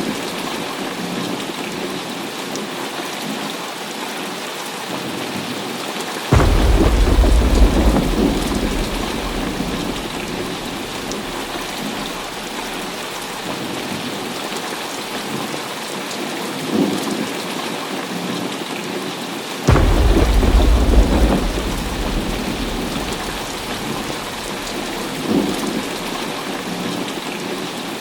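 Heavy rain falling steadily, with thunder: two sharp, deep claps come suddenly about six seconds in and again about twenty seconds in, each rumbling away over a few seconds, and fainter rumbles come in between.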